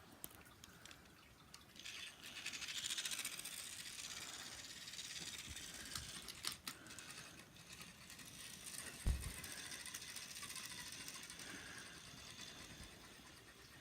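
Toy train running along its track: a steady high whir and rattle that starts about two seconds in, with a few clicks and a single thump about nine seconds in.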